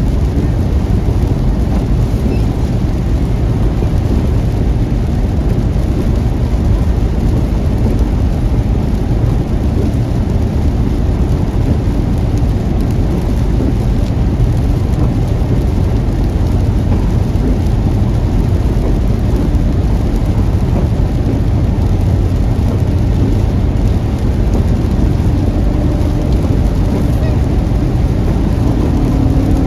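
Heavy rain on a moving car, over a steady low rumble of the car on the road. A faint engine hum comes up near the end.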